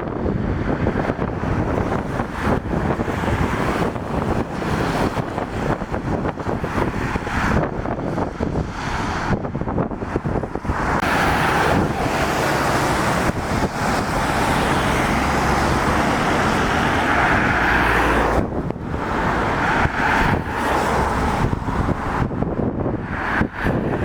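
Road traffic passing on a wet road, loudest from about halfway through for several seconds as a vehicle goes by, with wind buffeting the microphone.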